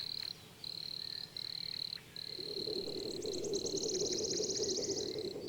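Wildlife ambience: a steady high-pitched trill broken by short gaps, with a lower, rough buzzing joining about two seconds in.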